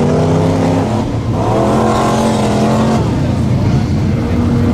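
Mud-bog truck engine revving hard. Its pitch drops about a second in, climbs and holds high until about three seconds, then falls off.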